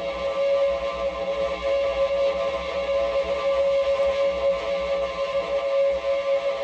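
Live noise-music drone: a dense, steady sustained tone that holds one pitch without a break.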